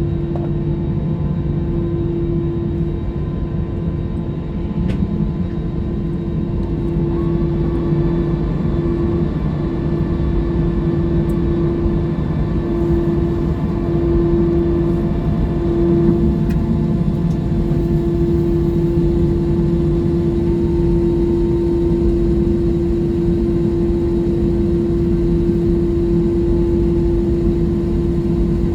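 Jet airliner cabin noise heard from inside: a steady low rumble from the engines and air system, with a constant mid-pitched hum.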